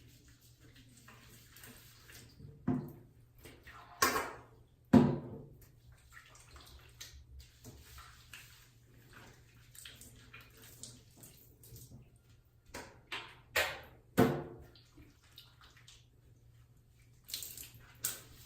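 Water splashing in a tub as a cat is bathed, in several short, sudden bursts, the loudest about five seconds in.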